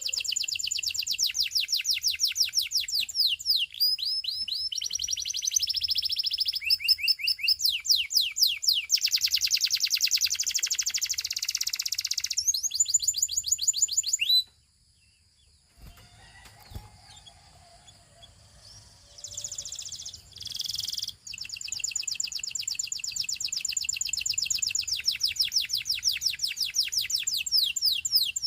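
Russian canary singing a song of rapid trills, each a fast run of repeated high notes changing from tour to tour. It breaks off about halfway for a few seconds of quiet, then sings again.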